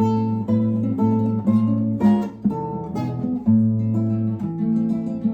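Acoustic guitar strummed in a steady rhythm, chords changing about every half second, as the introduction to a song.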